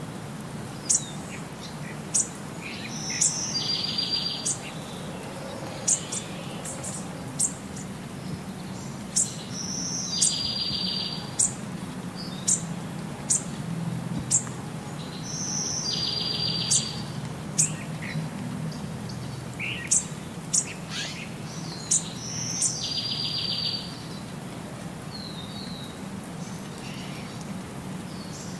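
Birdsong: short, sharp high chirps about once a second, with the same buzzy trilled phrase returning about every six seconds over a faint low hum.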